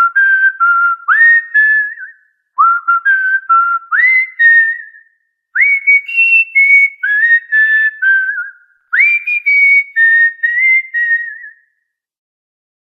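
Cockatiel whistling a tune: four short phrases of clear notes, each opening with a quick upward swoop and then stepping through a few short held notes, with brief pauses between phrases.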